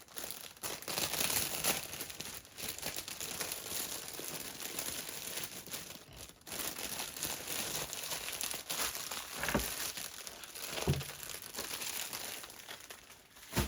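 Plastic packaging of a diamond painting kit crinkling and rustling as it is handled and put away. There are two soft knocks in the second half and a sharper thump near the end.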